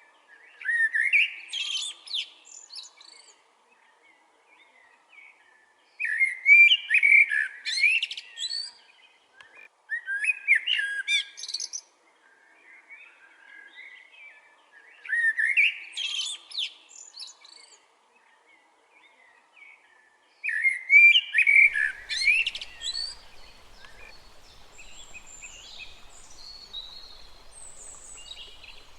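A songbird singing a rapid, warbling song in repeated bouts of about two seconds, roughly every four to five seconds. About three-quarters of the way through, the steady rush of a small stream comes in, with fainter high bird calls over it.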